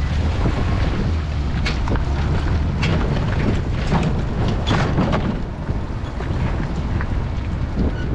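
Wind buffeting the microphone with a steady low rumble, over water lapping at a kayak, with a cluster of short, sharp slaps in the middle.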